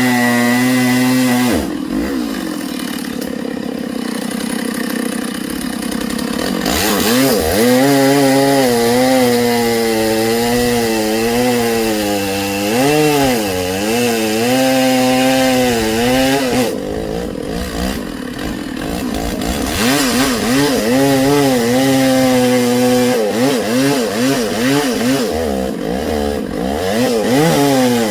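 Chainsaw running at high revs and cutting branch wood, its engine pitch wavering up and down as the chain bites and frees. It eases off a few times before revving up again.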